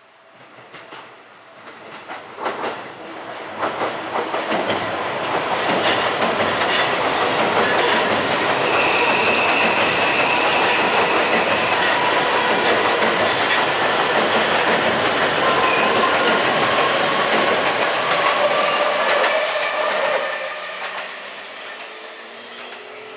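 Seibu 001 Series Laview electric train crossing a steel girder bridge: the rumble and rattle of its wheels on the steel span build over the first several seconds, with repeated clicks from the wheels and thin high tones over the top. The sound holds steady and loud, then drops away sharply about twenty seconds in.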